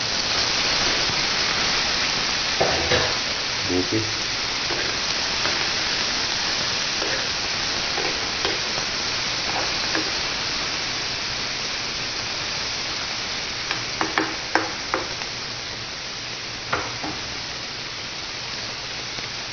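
Chopped pig innards (intestine, tripe, liver and lung, leftover papaitan) frying in hot oil in a pan with a steady sizzle. The sizzle is strongest just after the food is tipped in and eases slightly. A few short clicks come about two-thirds of the way through.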